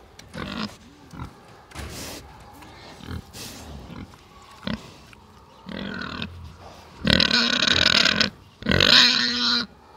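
Piglets grunting in short, scattered calls, then two long, loud squeals near the end.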